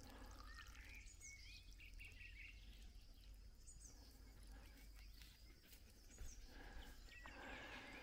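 Near silence outdoors, with faint scattered bird chirps and short calls.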